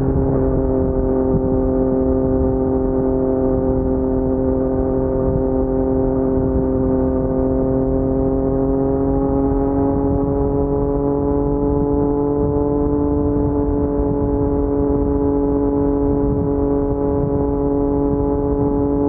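Yamaha MT-09's three-cylinder crossplane (CP3) engine running through an Akrapovic carbon full-system exhaust, held at steady low revs while riding slowly. The pitch rises gently around the middle and then holds.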